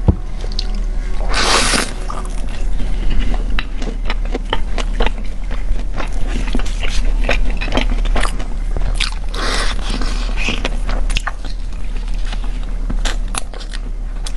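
Close-miked eating: crunchy bites and chewing, made up of many quick clicks with a couple of longer crunches.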